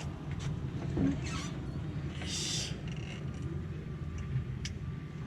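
Vehicle engine idling with a steady low rumble, with a brief hiss about two seconds in and a few light clicks.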